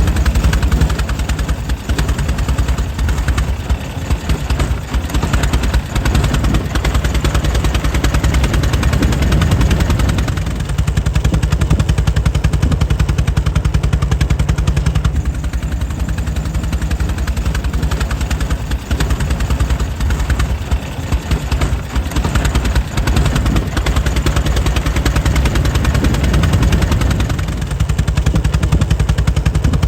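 Air-cooled engine of a 1904 Mitchell running steadily, its rapid firing beats coming in an even, rhythmic patter with a deep low end.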